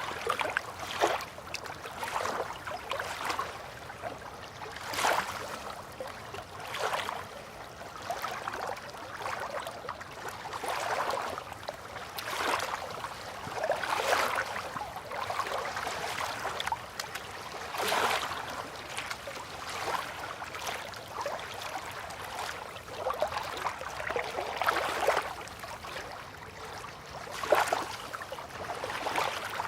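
River water lapping gently at the bank, small irregular splashes every second or two over a soft steady wash.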